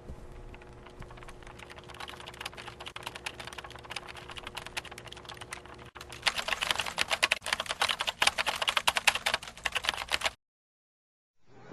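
A fast, dense clatter of small clicks, like keys being typed, growing louder about halfway through and cutting off abruptly near the end.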